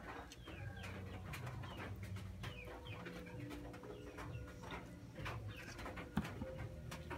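Instant noodles being slurped and chewed, with many small wet mouth clicks, and a brief knock about six seconds in as the bowl is set down.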